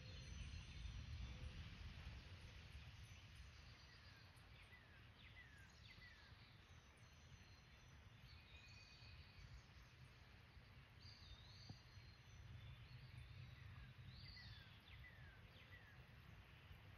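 Near silence: a faint steady hush with a low rumble, and a few birds calling, short falling chirps about five seconds in and again near the end, with a couple of rising whistles in between.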